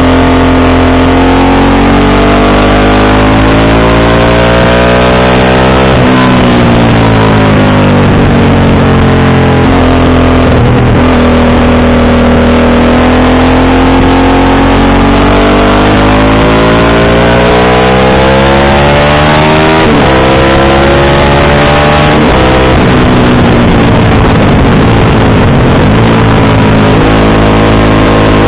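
Motorcycle engine on the move, its note rising and falling with the throttle, with sudden drops in pitch a few times that sound like gear changes.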